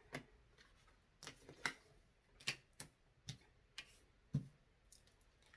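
About a dozen light clicks and taps at irregular intervals.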